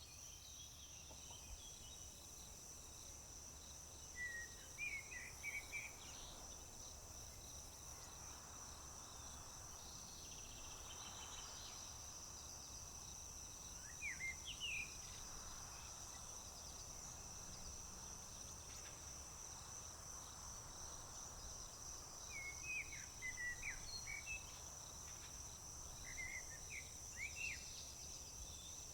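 Crickets trilling steadily in one high, unbroken tone, with a songbird singing short chirpy phrases a few times: once about four seconds in, again around fourteen seconds, and in a run of phrases near the end.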